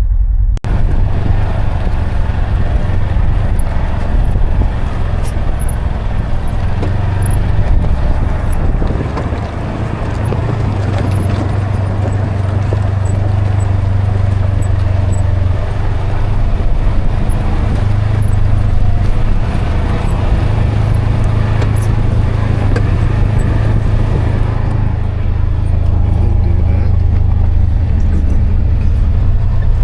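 Side-by-side UTV driving on a mountain trail, its engine running steadily with a low drone.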